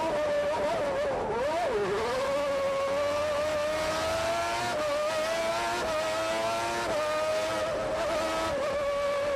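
Honda turbocharged V6 of a 1988 McLaren MP4/4 Formula 1 car heard onboard at high revs. The pitch dips and recovers about a second and a half in, then climbs steadily, with brief drops at gear changes around five, six and seven seconds in.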